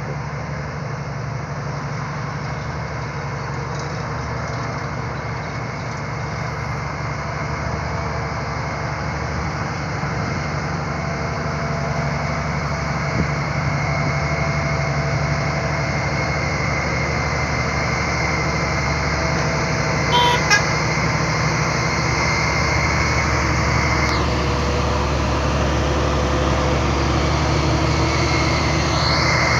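Diesel engine of a heavily loaded truck pulling steadily uphill, slowly growing louder. A short horn toot about twenty seconds in.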